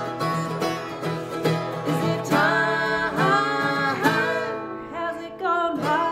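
A live acoustic duo performing a folk/country song: plucked strings strummed and picked under a sung melody, with the voice coming in for phrases about two, four and five and a half seconds in.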